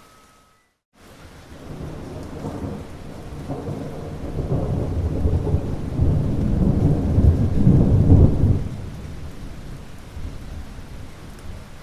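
Thunder rolling over steady rain. After a brief dropout just under a second in, a low rumble builds, is loudest from about six to eight and a half seconds, then dies away, leaving the rain.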